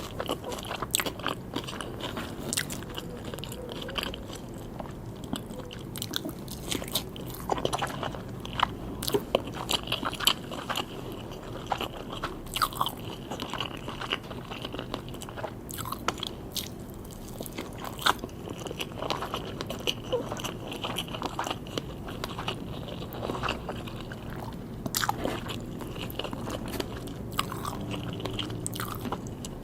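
Close-up eating sounds: a person biting and chewing sushi, with irregular crunchy, crisp bites and wet chewing throughout.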